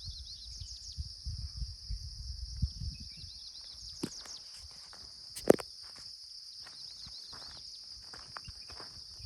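Footsteps on a village path, soft and uneven over the first few seconds, then scattered lighter steps, with one sharp click about five and a half seconds in. A steady high-pitched chirring runs underneath.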